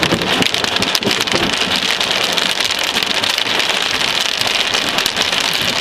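Heavy thunderstorm rain pouring down, a dense, steady patter of drops hitting a surface.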